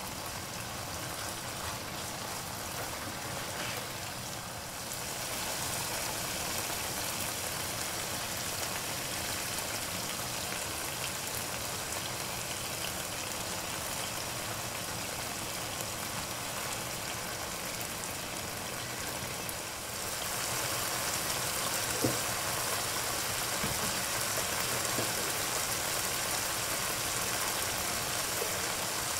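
Liver masala sizzling steadily as it fries in oil in a non-stick wok, getting louder about five seconds in and again about twenty seconds in. There is a single sharp click a little after that.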